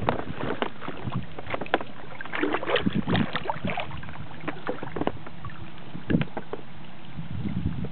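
Kayak paddle dipping and splashing in river water in irregular strokes, over steady water noise.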